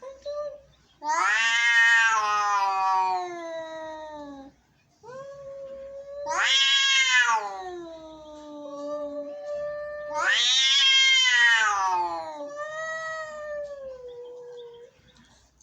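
Angry cats yowling in long, drawn-out wails, four in a row, each rising then falling in pitch.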